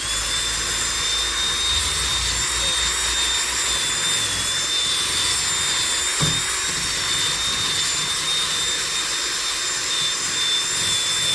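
A small high-speed electric power tool running steadily at full speed: a high-pitched motor whine over a rushing hiss, switched on at the start and cut off sharply at the end.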